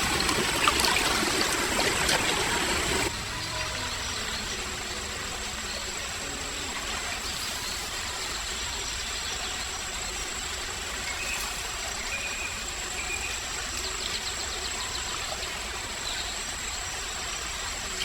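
Forest stream water running steadily. It is louder for about the first three seconds, with a few splashes and clicks, then settles to an even rush.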